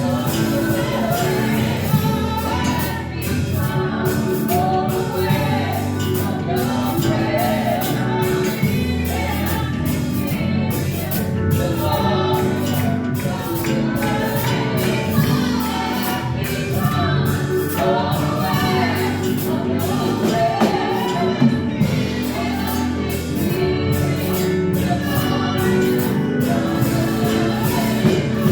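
Church praise-and-worship music: a band accompanies a group of singers in a gospel-style worship song, with a steady beat.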